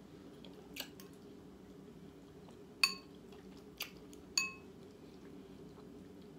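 Cutlery clinking against a plate four times, two of the clinks ringing briefly, over a steady low hum.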